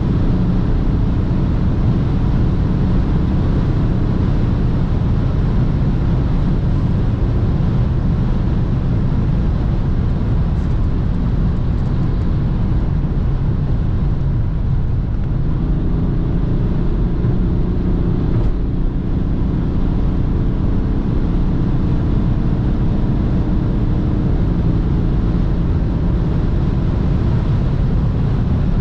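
BMW 330d xDrive's three-litre straight-six turbodiesel running at high autobahn speed, a steady engine drone under heavy road and wind noise. The engine tone steps up about halfway through and settles back down later on.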